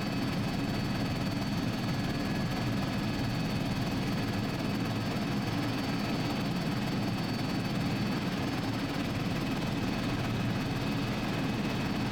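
Helicopter in steady cruising flight: a constant low drone of engine and rotor with a thin, steady high whine on top.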